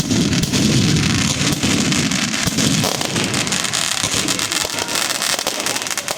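Fireworks going off in a dense, continuous rapid crackle, with a low rumble under it.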